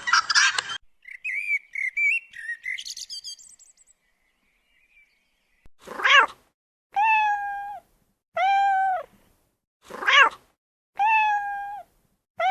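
A kitten meowing five times, high-pitched calls about a second apart, some short and rising, others longer and drawn out. Before that come a few seconds of small bird chirping and a short pause.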